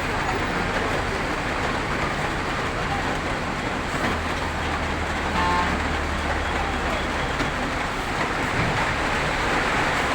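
Heavy truck engine running low on a climb under a steady hiss of rain and wet road. A brief high tone sounds about halfway through.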